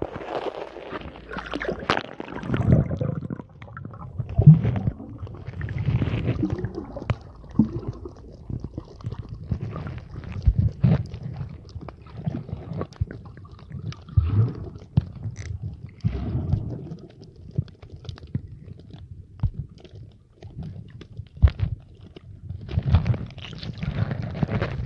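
Small sea waves washing in and out over a stony shoreline, with irregular surges, gurgles and low rumbling.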